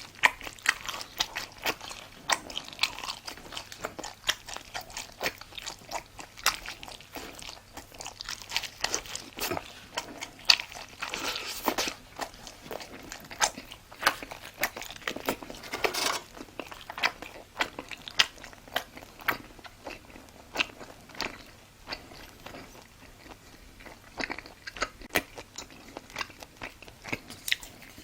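A person chewing and biting crunchy food close to the microphone: a dense, irregular run of sharp crackling crunches between softer chewing sounds.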